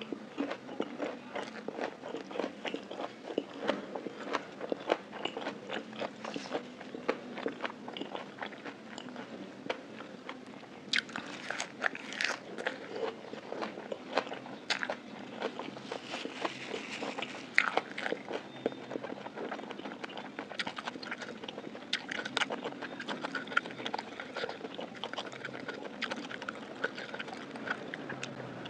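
Close-miked chewing of fresh lettuce leaves, a continuous run of small sharp crunches and mouth clicks, with a few louder crunches about eleven and seventeen seconds in.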